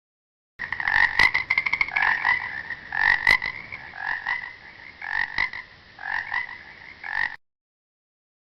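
Frog croaking: a run of short, repeated pulsed croaks, starting about half a second in and stopping about a second before the end.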